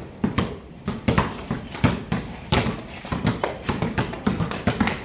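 Several basketballs being dribbled at once, giving uneven, overlapping thuds of balls bouncing on the court.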